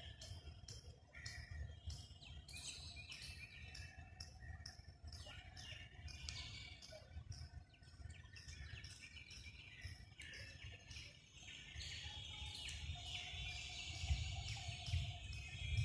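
Birds chirping repeatedly over a low steady rumble, with a couple of louder low bumps near the end.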